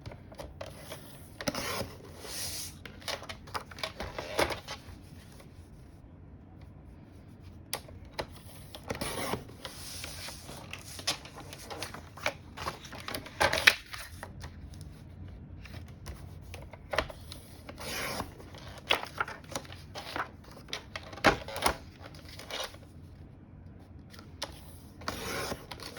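White cardstock being measured and cut into pieces by hand: irregular clicks, paper rustling and short swishing cutting strokes, a few louder than the rest.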